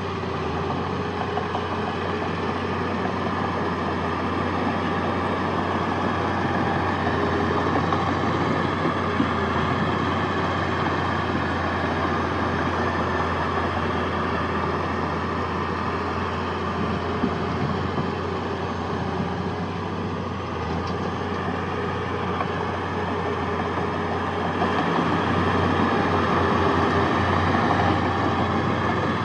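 Heavy diesel engine of earthmoving machinery running steadily. It grows a little louder twice, about a third of the way in and again near the end.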